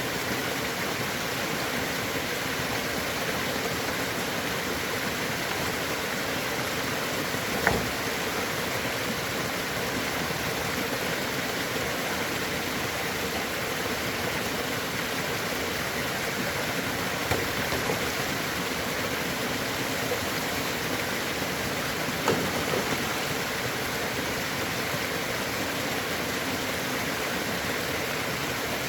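Steady rushing of water, with three short knocks, about 8, 17 and 22 seconds in.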